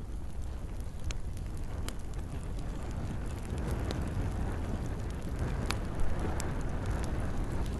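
Campfire burning: a steady low rumble of the flames with a handful of sharp crackles and pops, the loudest just after six seconds in.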